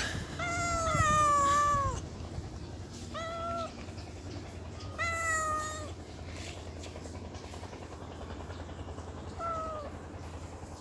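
Domestic cat meowing four times: one long meow of about a second and a half, then two shorter ones and a brief final one, each falling in pitch at the end.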